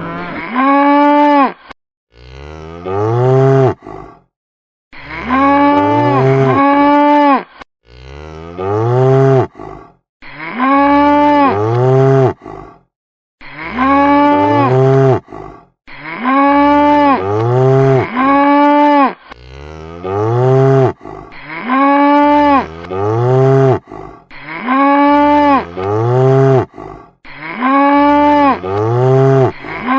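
Cow mooing over and over: the same short call repeated every second or two, each call holding its pitch and then dropping at the end.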